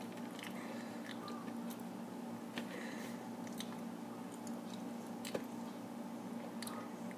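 A boy chewing a large mouthful of banana with his mouth closed: soft wet squishing and scattered small mouth clicks, over a steady low hum.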